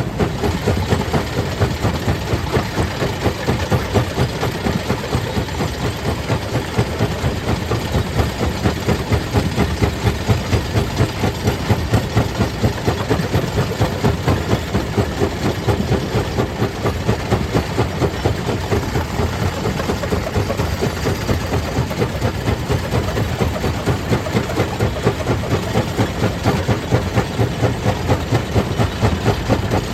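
Stone crusher plant machinery running steadily, a heavy mechanical drone with a fast, even pulse.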